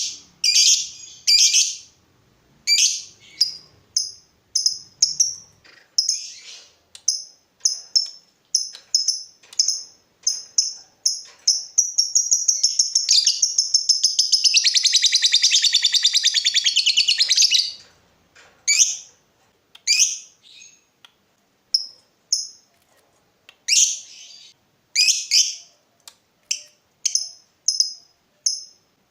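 Lovebird singing: a string of short, high, sharp chirps about two a second, breaking about halfway through into a rapid continuous trill of about six seconds, then back to spaced chirps.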